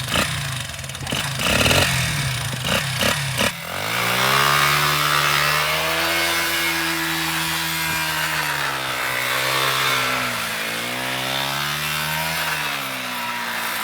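Pit bike engine revving up about four seconds in, holding a steady pitch, then dipping briefly and rising again. Before it comes up, a few seconds of irregular knocks and rattles.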